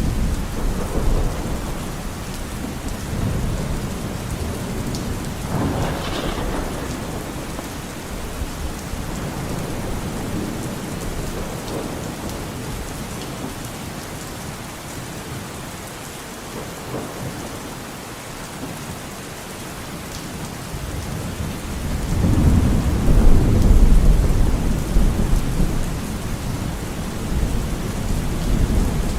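Steady rain with low rolls of thunder. The longest and loudest rumble builds about three quarters of the way through.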